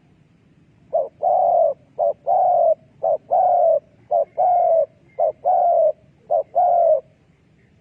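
Spotted dove cooing: five short-then-long coo pairs, one after another over about six seconds.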